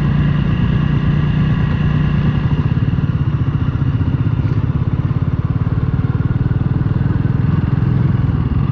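Motorcycle engine running steadily while riding along, its exhaust pulses coming through as an even, rapid beat.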